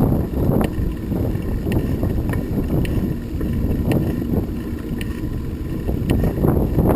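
Wind buffeting the microphone while riding along a road, a dense fluctuating rumble with scattered small ticks and clicks.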